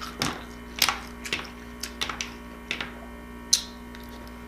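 Close-miked eating sounds: irregular sharp clicks and smacks, about eight in all, over a steady low hum.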